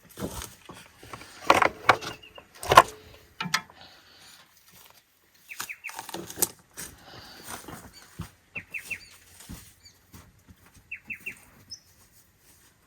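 A small bird chirping in short runs of three or four quick falling notes, repeated several times, over knocks and clinks of tools and small parts being handled, the loudest knocks in the first three seconds.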